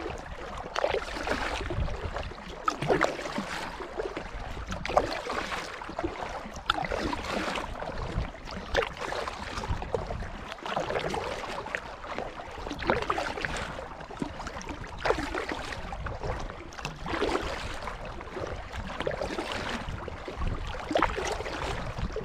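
Kayak paddle strokes dipping and pulling through the water, an even splash about every two seconds.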